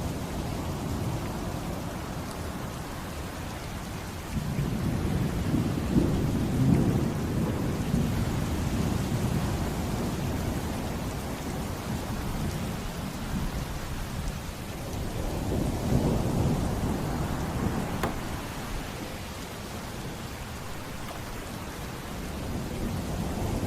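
Steady rain with low rolling thunder that swells up twice, about a quarter of the way in and again past the middle.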